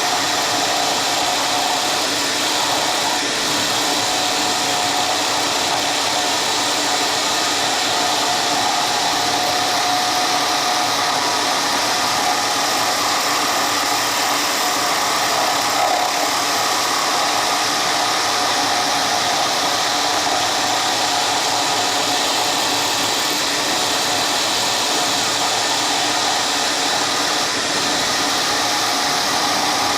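A workshop power tool running steadily with a constant whine over a rushing noise, neither speeding up nor stopping.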